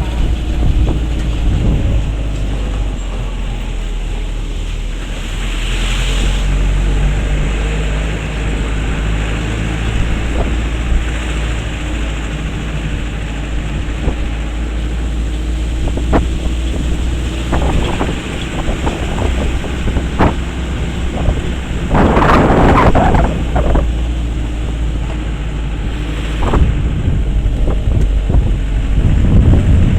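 A vehicle engine runs under way, with a steady low rumble, wind buffeting the microphone, and occasional knocks and rattles. A louder rush of noise comes about two-thirds of the way through.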